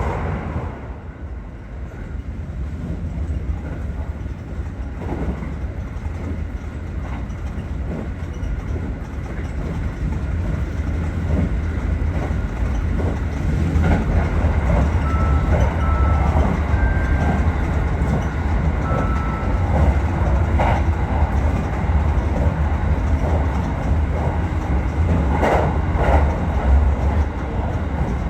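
Aichi Loop Railway 2000 series electric train running along the track with a steady low rumble and scattered clicks from the wheels over the rails, growing louder about halfway through. A few brief high tones sound shortly after that.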